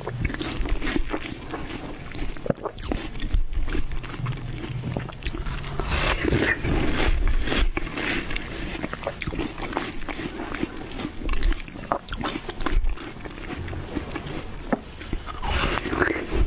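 Close-miked eating of watermelon: repeated bites and chewing, heard as a stream of short, sharp crunchy clicks.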